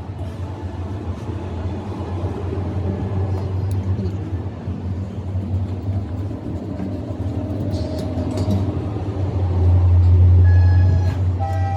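An engine running steadily with a low rumble, growing louder about ten seconds in and then easing off.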